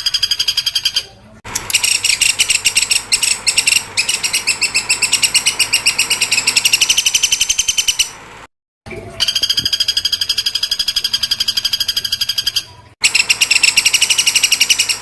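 Songbird calling in long runs of rapid, repeated high notes, each run lasting several seconds and stopping abruptly, from a master recording for training songbirds such as shama, magpie-robin or green leafbird.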